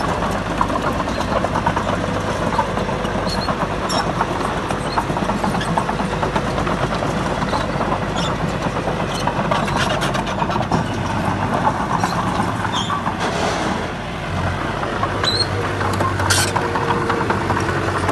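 Heavy diesel engine of earthmoving machinery running steadily, with scattered clicks and knocks over it. Just before fourteen seconds in, the engine briefly drops in loudness, then comes back with a deeper, stronger low hum.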